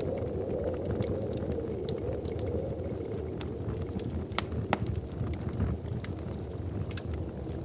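Wood fire crackling in a fireplace: irregular sharp pops and snaps over a steady low rumble of burning, with the loudest pop a little past the middle.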